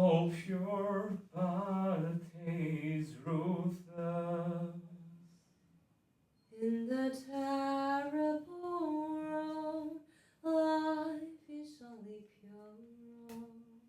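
A lone voice singing a slow, wordless melody without accompaniment, in two long phrases of held notes with a pause of about a second in the middle.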